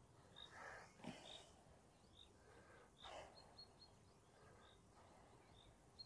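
Near silence with a small bird chirping faintly: short, high chirps about once a second, some in quick runs of three.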